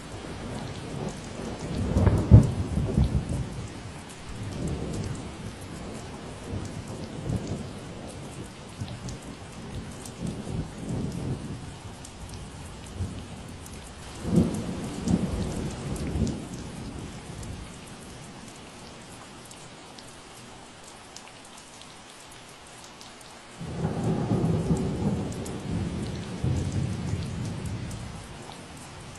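Steady rain falling, with several rolls of low thunder rumbling through it. The loudest comes about two seconds in, and a long roll starts suddenly near the end.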